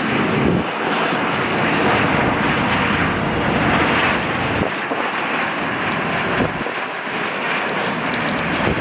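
Boeing 787 airliner's twin jet engines heard in flight, a loud, steady rushing jet noise.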